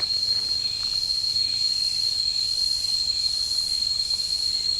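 Insects singing in the jungle, one steady, unbroken high-pitched whine.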